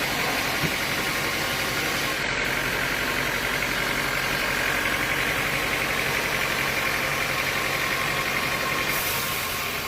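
Sawmill machinery running with a steady engine drone.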